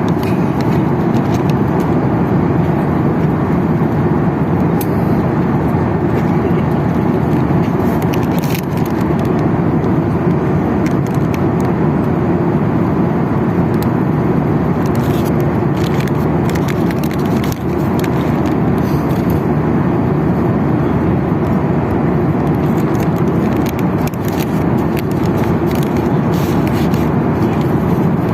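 Steady cabin noise of a Boeing 737-800 in flight: an even rush of airflow and engine noise from the CFM56-7B engines, with a few faint clicks.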